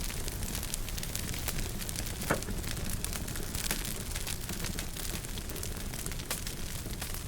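Wood fire burning in a fireplace: a steady low rumble of flames under frequent small crackles, with one louder pop about two and a half seconds in.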